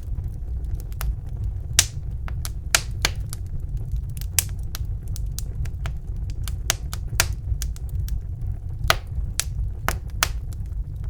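Wood fire burning in a fireplace: irregular sharp crackles and pops, a few louder ones, over a steady low rumble of the flames.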